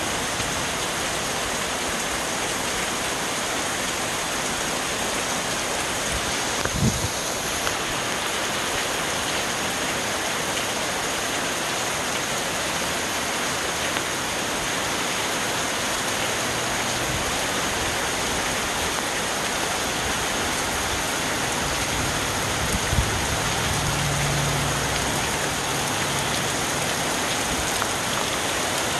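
Heavy rain falling steadily on trees and leaves, an even, unbroken hiss. Twice a brief low thump breaks through it.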